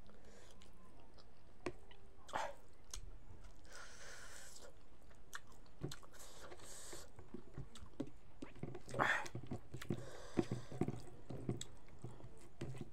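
A person chewing a mouthful of rice eaten by hand, with small wet mouth clicks. There are a couple of short hisses about four and seven seconds in, and the clicks come thicker over the last few seconds.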